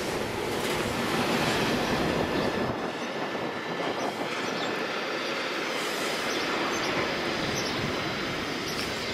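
A train rolling past on the rails: a steady rushing rumble of wheels and wagons with some wheel squeal, the deepest rumble thinning out about three seconds in.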